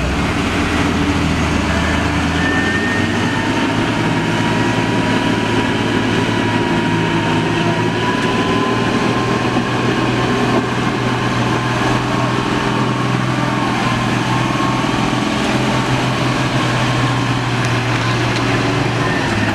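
Diesel truck engine running steadily under load, with a thin whine that rises slowly in pitch through the middle of the run.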